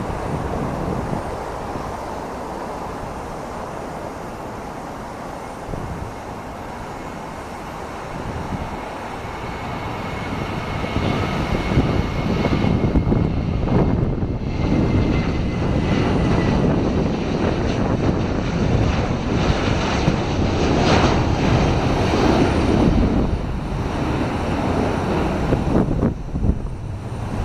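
Boeing 737-800's CFM56-7B jet engines at takeoff power. The roar swells to its loudest about halfway through, with a high fan whine that falls slightly in pitch.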